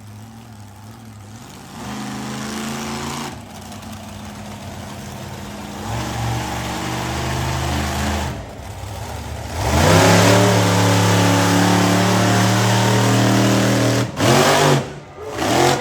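Monster truck engine revving in several bursts that grow louder. The longest and loudest comes about ten seconds in and is held for some four seconds, followed by two quick blips of the throttle near the end.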